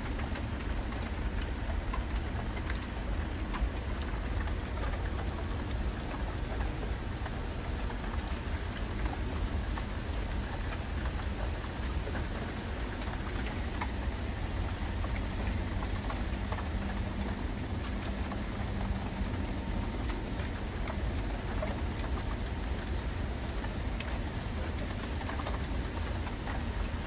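Heavy rain falling steadily, with many small ticks of single drops striking nearby surfaces.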